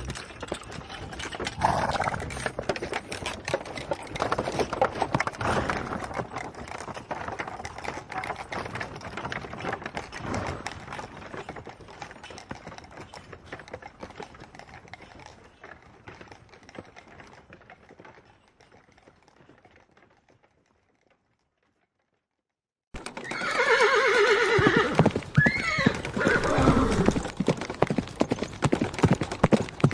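Horse hooves clip-clopping in a fast, dense patter that gradually fades away. After a couple of seconds of silence, hoofbeats start again loudly and a horse gives a long neigh.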